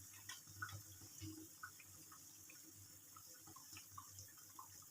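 Faint sizzling and crackling of urad dal vadas deep-frying in hot oil, small scattered pops throughout.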